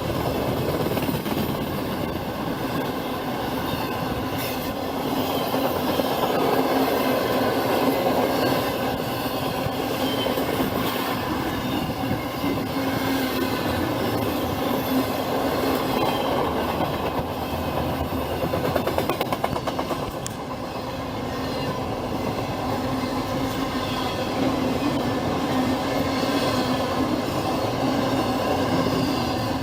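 Norfolk Southern freight train rolling past, its cars making a steady rumble of wheels on rail, with a quick run of clicks from the wheels about two-thirds of the way through.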